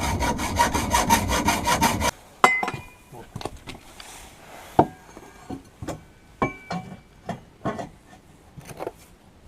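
Fast rhythmic rasping scrape, about seven strokes a second, that cuts off abruptly about two seconds in, followed by scattered light metallic knocks and clinks as the exhaust pipe is worked and fitted.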